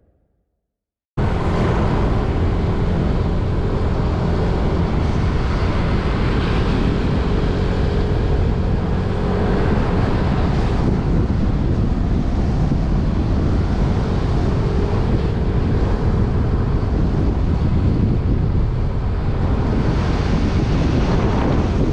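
Wind rushing over the microphone of a moving motorbike, with the bike's engine humming faintly beneath. It starts abruptly about a second in, after a brief silence, and then stays steady.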